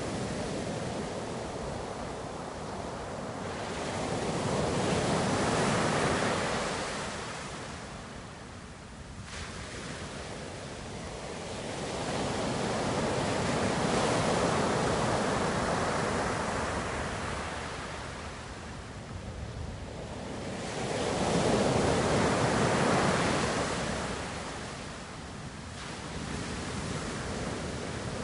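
Ocean surf washing in and out, the noise of the waves swelling and ebbing in three long surges about eight seconds apart.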